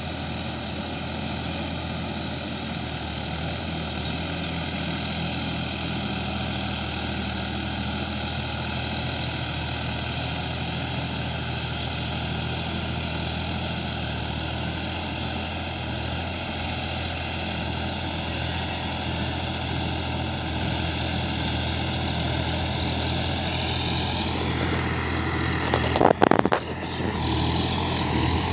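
Sonalika DI-50 RX tractor's diesel engine running steadily, its pitch rising a little near the end. A brief loud thump sounds shortly before the end.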